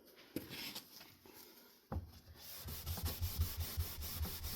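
A cloth being rubbed over a wooden ceiling fan blade to wipe off thick dust. A few faint handling sounds and a sharp tap come first, then quick, even back-and-forth scrubbing strokes, about five a second, from about halfway through.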